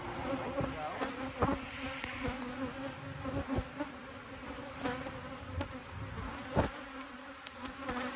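Many honeybees buzzing around an open hive, a steady hum, with a few sharp knocks and clicks scattered through it.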